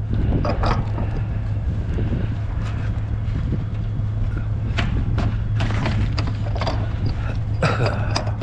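Scrap metal being handled: irregular clanks, knocks and scrapes over a steady low hum.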